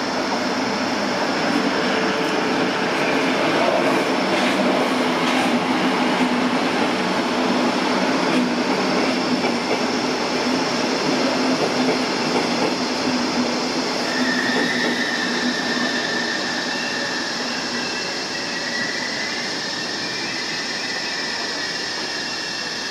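Electric trains moving slowly through the station, giving a steady noise of wheels and motors. A high, steady whine joins in about two-thirds of the way through.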